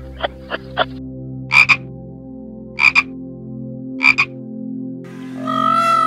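Animal calls: a run of soft clicks, then three loud, short double calls about a second and a half apart. About a second before the end a peacock starts a long, loud call.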